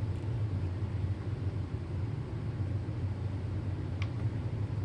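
Steady low background hum with a faint click about four seconds in.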